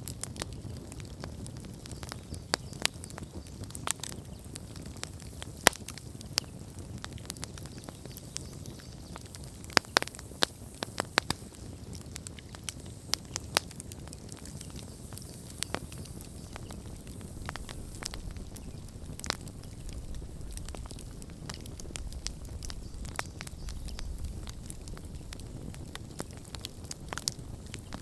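Wood campfire burning, with irregular sharp crackles and pops over a soft steady rush of flame.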